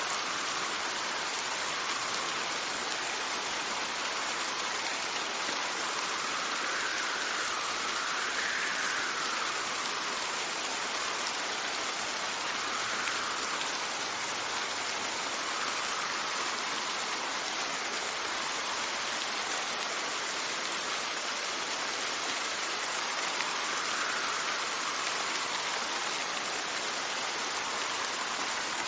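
Steady rain falling, with a faint wind whistle that rises and falls in pitch several times.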